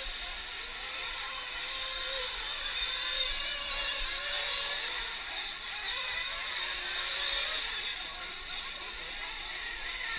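Several nitro RC truck engines running at high revs around the track: a steady high-pitched whine made of several wavering pitches that rise and fall as the trucks accelerate and back off.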